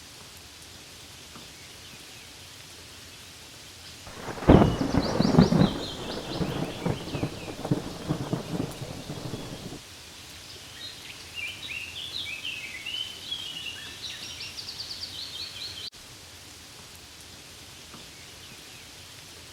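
Steady rain falling on leaves. About four seconds in, a rumble of thunder rolls in and dies away near the ten-second mark. Birds chirp high above the rain, once during the thunder and again in a longer run after it.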